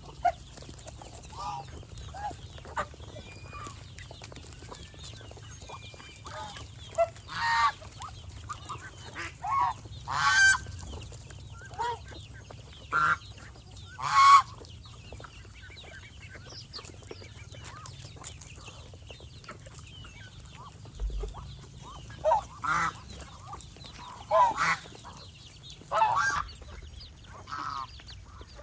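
Domestic geese honking: short separate honks every second or two, with a lull of several seconds in the middle, over a faint low steady hum.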